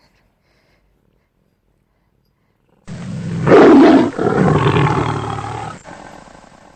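Big-cat roar like a lion's, coming in suddenly about three seconds in after near silence. Its first part is the loudest; a second, longer part follows and fades off near the end.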